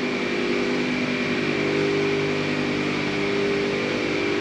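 Steady engine drone at a constant pitch, without change.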